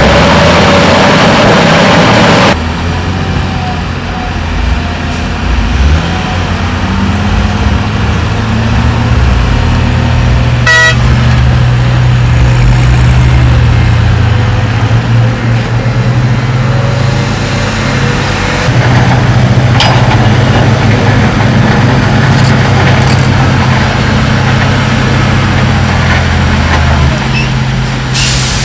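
Heavy diesel earthmoving machinery running steadily, after a loud rushing noise that stops abruptly about two and a half seconds in. There is a short horn toot about eleven seconds in.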